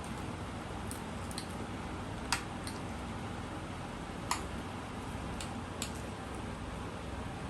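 Cutlery clicking against plates during fast eating: a few scattered light clicks, two louder ones about two and four seconds in, over a steady low hum.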